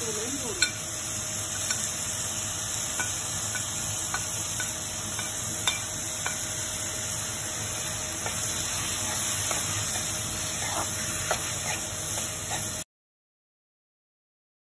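Chopped onions, tomatoes and green chillies sizzling in oil in a kadai, with a metal spoon stirring and scraping the pan in scattered small clicks. The sound cuts off abruptly about two seconds before the end.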